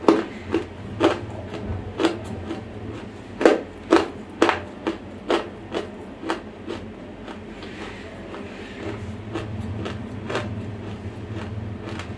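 Close-miked chewing of a bite of dry, semi-roasted clay: a run of sharp, dry crunches, loudest about four seconds in, thinning out after about seven seconds into softer chewing.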